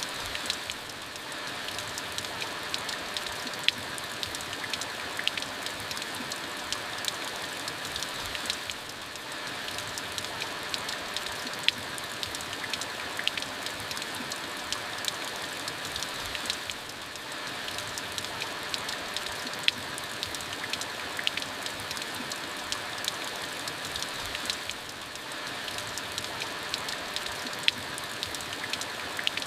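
Steady rain falling, with frequent sharp ticks of individual drops striking a hard surface.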